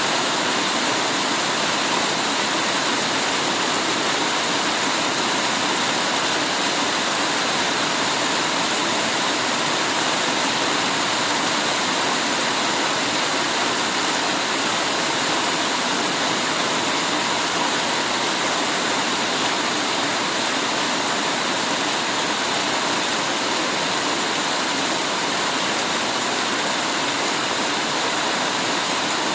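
Heavy rain falling steadily, a dense, even hiss with no single drops or gusts standing out.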